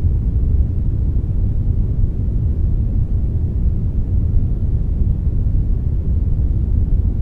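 Synthetic brown noise, a steady deep rumbling hiss with most of its weight in the bass and little treble, unchanging throughout.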